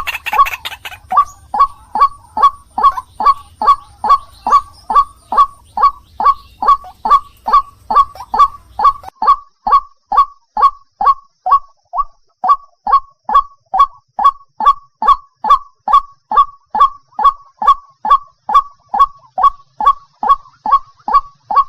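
White-breasted waterhen (ruak-ruak) giving its monotonous repeated call: short, evenly spaced notes at about two to three a second, with a brief pause about twelve seconds in.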